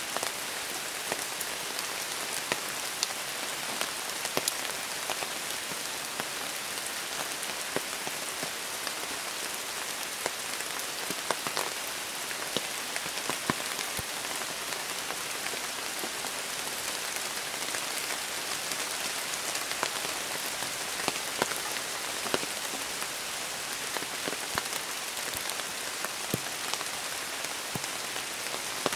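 Steady rain falling, with many separate drops ticking sharply close by on the umbrella over the blind.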